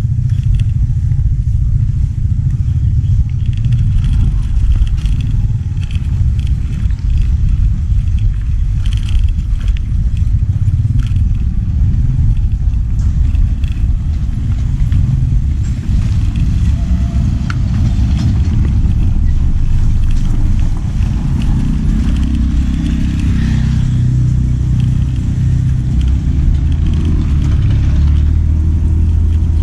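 Road-travel vehicle noise: a steady low rumble, with an engine's hum coming forward over the last several seconds.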